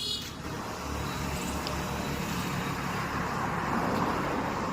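Road traffic noise: a steady rush of passing vehicles, swelling about three and a half seconds in as a vehicle goes by.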